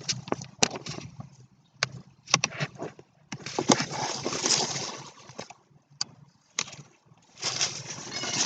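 Rustling noise in two long stretches, with scattered sharp clicks and knocks between them, over a low steady hum.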